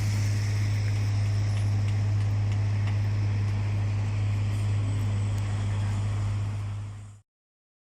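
Steady low drone of a vehicle with road noise. It fades out about seven seconds in, then cuts to silence.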